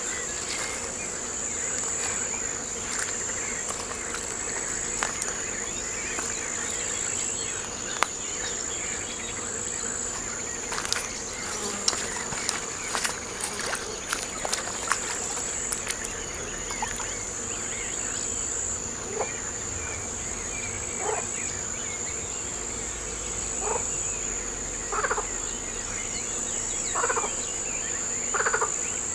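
Outdoor night-time-style ambience of insects trilling steadily in a high, unbroken note. A cluster of sharp clicks comes around the middle, and in the second half short animal calls repeat about every two seconds.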